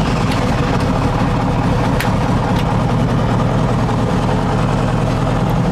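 Helicopter engine and rotor running at ground idle during warm-up after start, a steady low drone.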